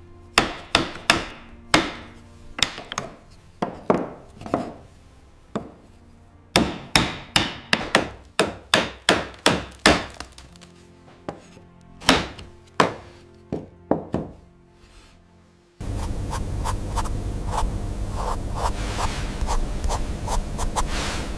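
A run of sharp, irregular knocks on wood, each ringing briefly. About 16 s in, it cuts suddenly to a steady scraping rub against wood.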